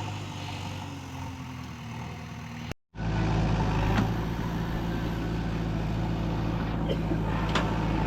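Diesel engine of a JCB 3DX backhoe loader running steadily. The sound drops out briefly about three seconds in, then comes back louder and deeper.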